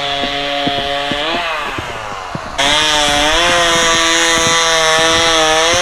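Stihl 029 two-stroke chainsaw running at high revs, cutting dry jack pine with a chain that is a little dull. The engine speed sags for about a second, then about halfway through it runs louder and steady with a strong hiss.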